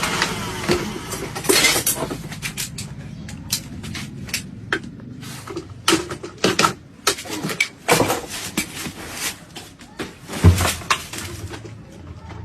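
Irregular knocks, clicks and clatter, many short sharp hits at uneven spacing, over a low steady background hum.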